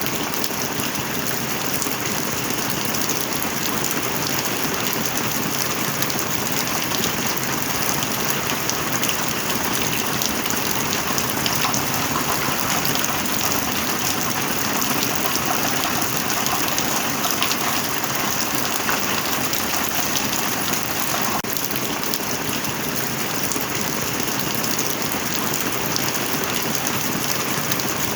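Heavy rain falling steadily: a dense, even hiss flecked with many small drop ticks.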